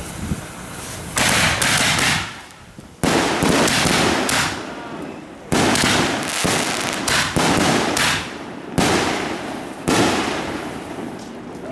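Fireworks going off: about six sharp bangs a second or two apart, each fading out over a second or so.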